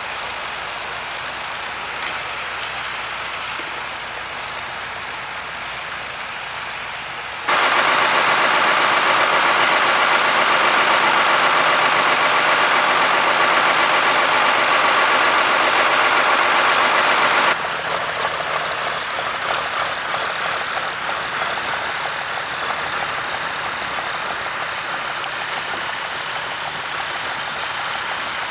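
Tractor engines working in the field, running steadily. About a third of the way in, a much louder, closer engine drone starts abruptly, lasts about ten seconds, then cuts back just as suddenly to the quieter running.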